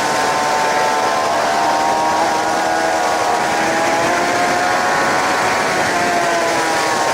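Suzuki GSX-R 750 K7's inline-four engine running hard on track, its pitch climbing and dipping as the revs change, under a loud rush of wind noise over the bike-mounted camera.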